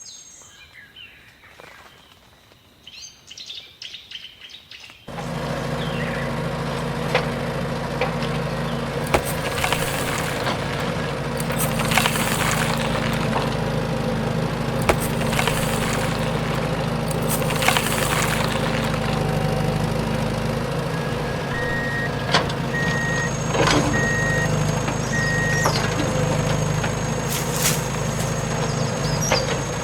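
Faint birdsong, then about five seconds in a heavy construction vehicle's engine comes in and runs steadily, with scattered clanks and knocks. A little past the middle, a short run of four reversing beeps sounds.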